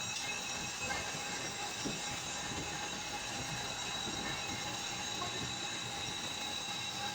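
A machine running steadily: a constant noisy hum with a steady high-pitched whine over it, unchanging throughout.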